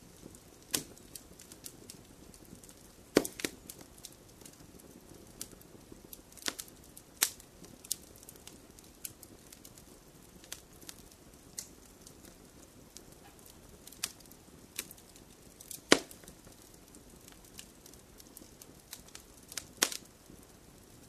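Wood fire crackling: irregular sharp pops and snaps over a low steady hiss, the loudest pops about three seconds in and about sixteen seconds in.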